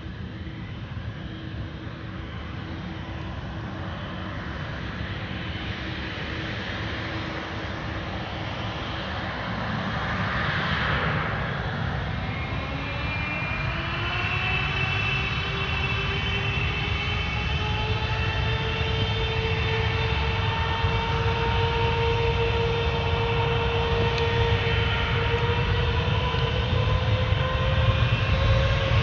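Boeing 777F's GE90 turbofan engines spooling up toward takeoff power. A low rumble grows steadily louder, and from about twelve seconds in a rising whine of several tones climbs in pitch.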